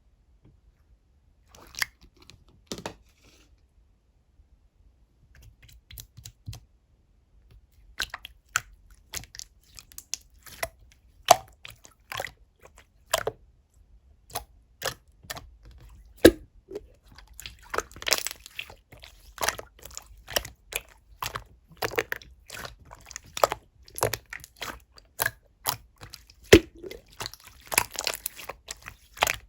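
Clear slime being squeezed and pressed by hand, giving sharp wet pops and clicks: only a few at first, then from about eight seconds in a steady run of several pops a second.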